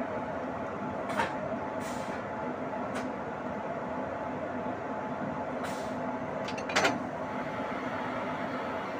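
Train at a railway station running with a steady rumble and hum, broken by about five sharp metallic clanks spread through, the loudest near the end.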